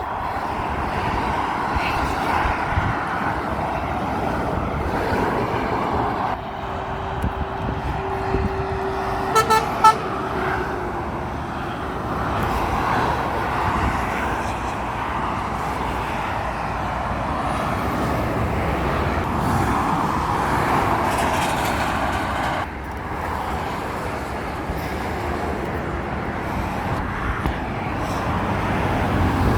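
Road traffic passing steadily, with trucks and cars going by. About nine seconds in, a vehicle horn gives two short toots.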